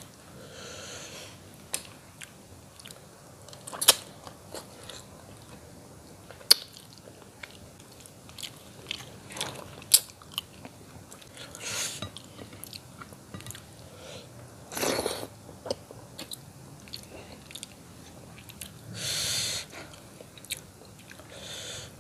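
Close-miked mouth sounds of someone eating patin fish head in curry by hand: chewing with scattered wet smacks and clicks, and a few longer, louder noisy sounds near the middle and near the end.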